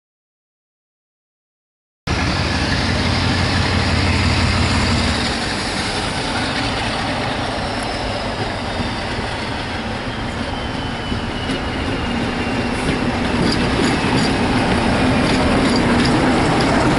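Silence for about two seconds, then a diesel-hauled passenger train running past close by: a heavy low engine note at first and a thin whine falling in pitch. Wheel clicks over rail joints come in the last few seconds as the coaches pass and the sound grows louder.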